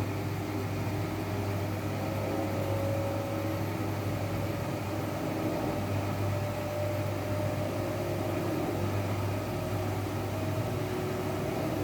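Washing machine running on a wash cycle with a load of blankets: a steady low motor hum with a faint, slightly wavering tone above it.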